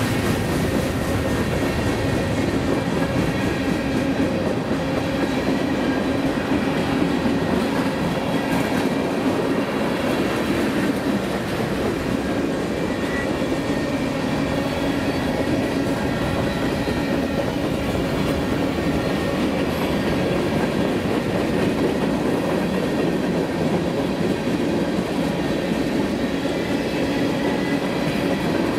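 Freight cars of a mixed freight train (tank cars, covered hoppers, a boxcar) rolling past at steady speed: the continuous noise of steel wheels running on the rails, holding an even level throughout.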